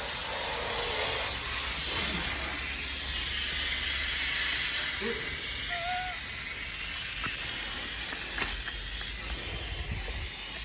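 Steady hissing background noise, with a few faint short chirps about halfway through.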